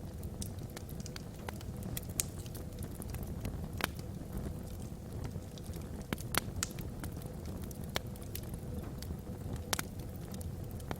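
Wood logs burning in a fireplace: a steady low rumble of flame with irregular sharp crackles and pops, a few louder pops standing out.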